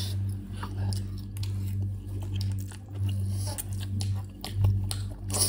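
Eating sounds: chewing instant ramen noodles, with scattered small sharp clicks of a fork against the bowl, over a steady low hum.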